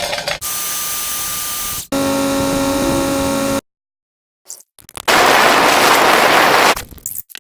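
A rapid run of short, abruptly cut sound effects played back sped up: a hissing noise, a steady buzzing hum with tones, a pause of about a second, a few clicks, then a loud noise like a sped-up explosion lasting about two seconds.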